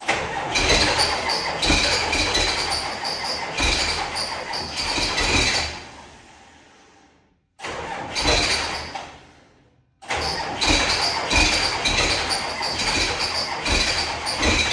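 Tractor engine being cranked over by its starter in three separate attempts, a rapid chugging with a high whine, the longest near the end. It struggles to fire, which the owner puts down to a weak battery after sitting for months.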